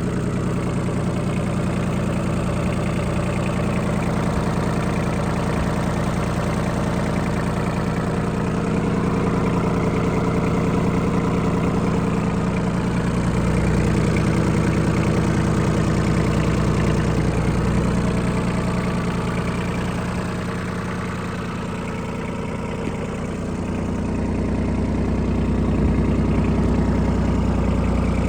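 Yanmar AF16 compact tractor's 16 hp diesel engine running steadily. Its sound eases off about twenty seconds in and builds again a few seconds later.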